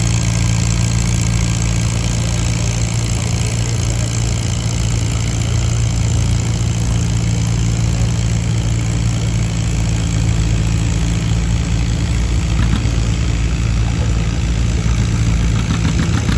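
Antique farm tractor engine running steadily at an even speed, with a deep, unchanging note.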